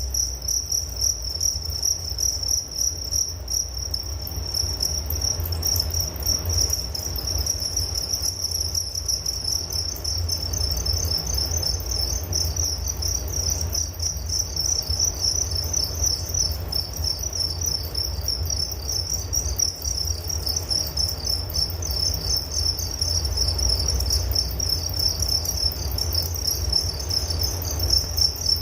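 Crickets chirping continuously in a steady, pulsing high-pitched chorus, over a low steady rumble.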